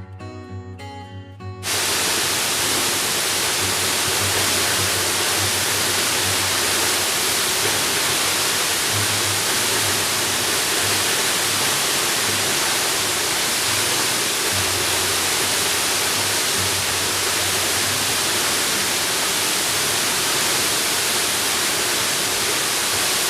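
Strummed acoustic guitar music cuts off abruptly under two seconds in, replaced by the loud, steady rush of a waterfall.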